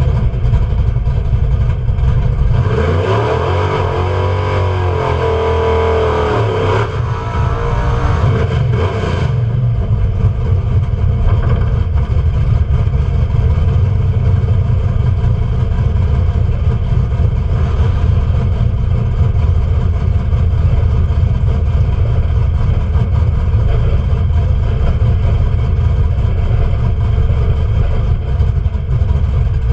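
Vehicle engine heard from inside the cab, running steadily. A few seconds in, its speed rises and falls several times before settling back to a steady run.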